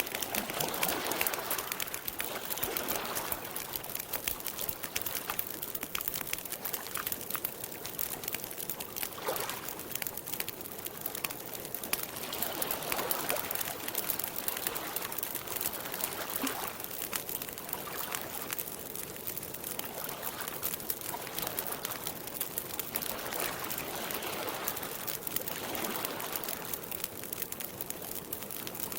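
Campfire crackling with a constant patter of small pops, over lake water lapping in soft swells every two to three seconds.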